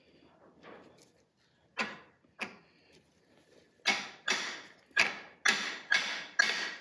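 Hammer blows on the driver bar of a cam bearing installation tool, driving a cam bearing into a small block Ford engine block. Two lighter taps are followed by six harder, ringing strikes about two a second.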